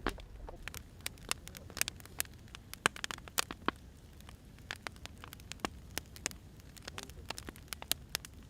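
Burning firewood crackling: irregular sharp pops, several a second, over a low steady rumble.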